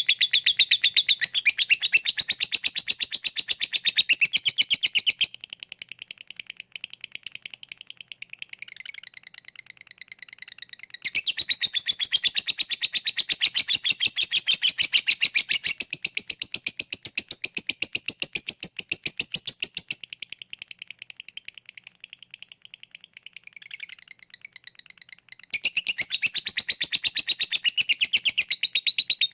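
Lovebird singing its ngekek song, a long, very rapid chattering trill of high chirps. The trill runs loud, drops to a quieter, sparser chatter twice, then comes back loud.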